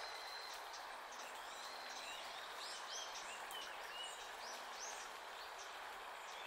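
Wild small birds calling: a steady run of short, high chirps, one or two a second, over a constant background hiss.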